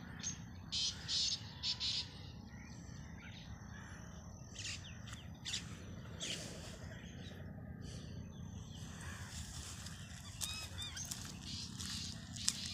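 Small birds chirping in short, scattered calls, several in quick succession in the first two seconds and a few curving notes near the end, over a steady low rumble.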